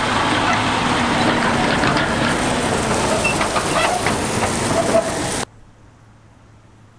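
Harvest machinery running close by: a loud, even rushing noise with a faint engine tone underneath. About five and a half seconds in it cuts off abruptly to a faint, steady low engine hum.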